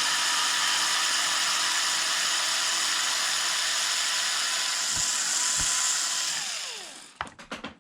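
Power drill running steadily as it backs out a servo screw, then winding down about six and a half seconds in with a falling whine, followed by a few sharp clicks.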